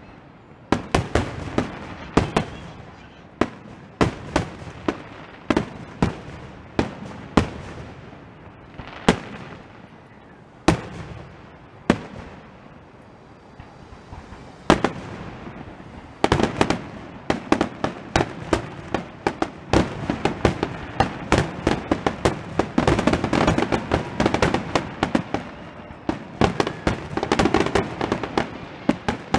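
Aerial firework shells bursting overhead: a string of sharp booms about a second apart, becoming much faster and denser from about halfway through, with rapid overlapping bangs and pops.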